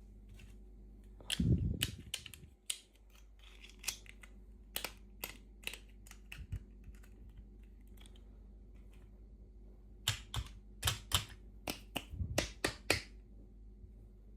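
Sharp clicks and taps of small hard plastic toy pieces and packaging being handled, irregular, with a louder knock about a second and a half in and a quick run of about eight clicks near the end.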